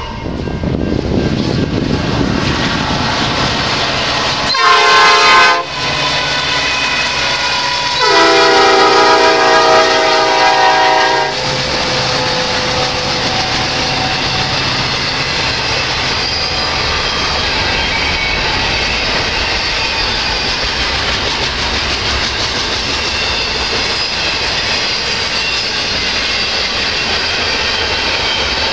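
Freight locomotive air horn sounding a short blast and then, about two seconds later, a long one, while the train passes close by. After the horn stops, the steady noise of the double-stack intermodal cars' wheels on the rail goes on.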